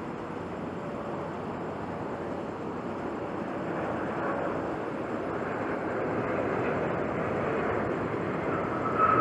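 Jet engines of a Boeing 787-10 Dreamliner on take-off: a broad rushing engine noise that grows steadily louder as the aircraft comes closer, with a high whining tone entering near the end.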